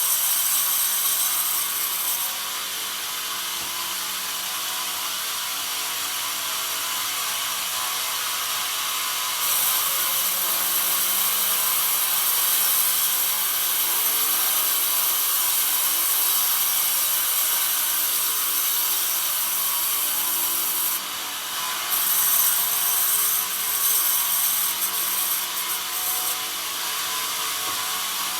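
Band sawmill running and sawing pine, the blade's cutting noise loud and hissy in long stretches, with the machine running more quietly between them. A steady mechanical clatter runs underneath throughout.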